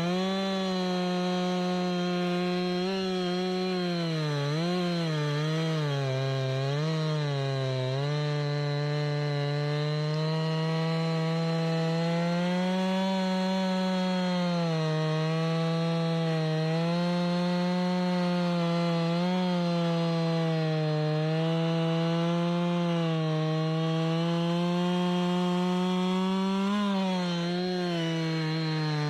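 Chainsaw running at high revs, cutting through a jack pine trunk. The engine pitch dips and wavers several times a few seconds in as the chain loads up in the wood, then holds fairly steady, with one more dip near the end.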